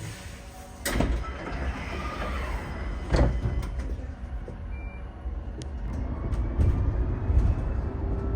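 Inside a moving bus: a steady low engine and road rumble, with a sharp knock and a hiss about a second in and another knock about three seconds in.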